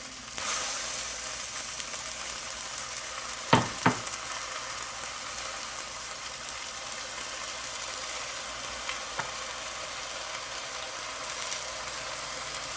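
Chicken pieces with onions and spices sizzling steadily in a hot pot as they fry. Two sharp knocks come a little after three seconds in, with two fainter ticks around nine seconds.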